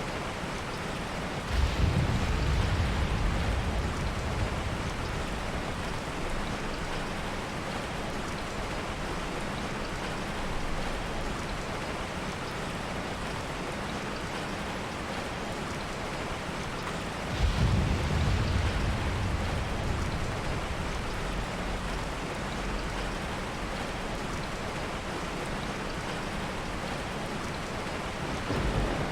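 Heavy rain falling steadily, with two soft rolls of thunder: one breaking in near the start and another a little past halfway, each rumbling low and fading over a few seconds.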